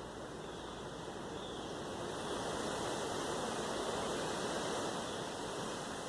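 Strong hurricane wind blowing in a continuous rush that swells into a stronger gust about two seconds in.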